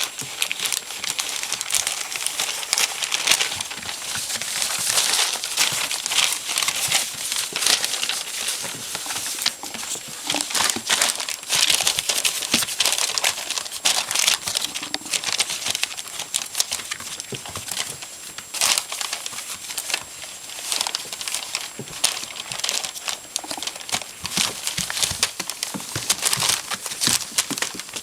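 Puppies moving about and playing, with constant crinkling and rustling and many small irregular clicks.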